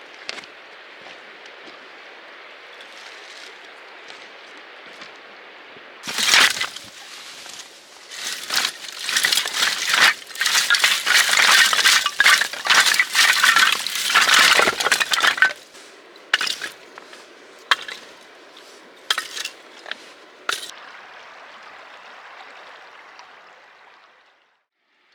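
A dense run of sharp, crisp clinks and cracks lasting about ten seconds, followed by a handful of separate ones, over a steady soft hiss.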